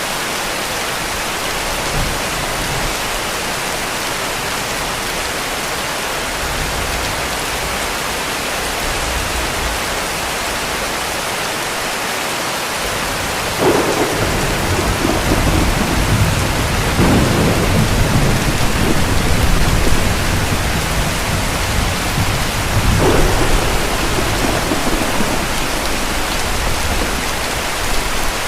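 Steady heavy rain with thunder: a faint low rumble early on, then about halfway through a sudden crack that rolls on as a louder rumble for several seconds, with another crack a few seconds later.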